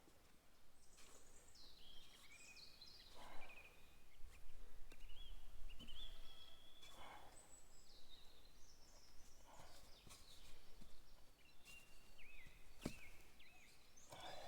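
Birds chirping and calling on and off, with a few soft scraping noises and one sharp click near the end.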